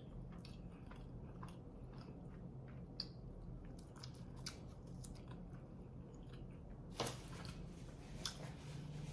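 A person chewing food close to the microphone: many small mouth clicks over a low steady hum, with one louder click about seven seconds in.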